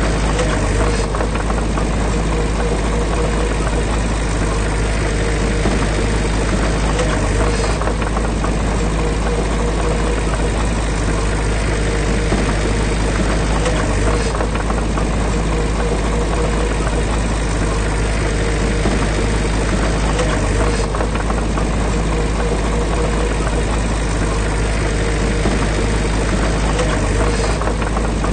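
Heavy diesel engine of earthmoving machinery running steadily at an even, unchanging pitch, with a strong low hum.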